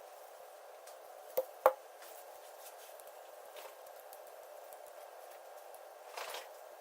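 Two sharp clicks close together about a second and a half in, then a brief rustle near the end, over a steady low hiss.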